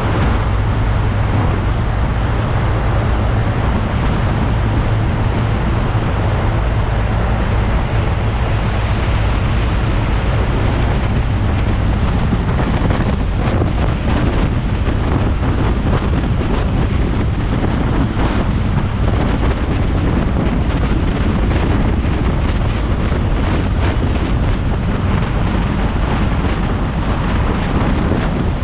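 A motorcycle riding along: steady wind rush on the microphone mixed with engine and road noise, with no clear breaks.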